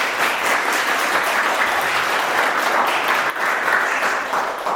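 A small group of people applauding, with dense steady clapping that thins out near the end.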